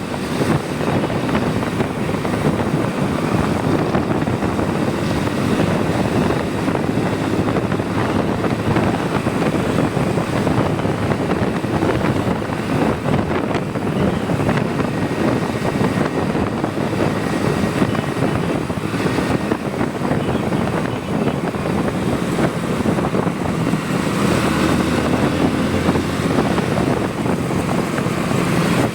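Motorcycle engine running steadily at cruising speed, mixed with wind and road noise.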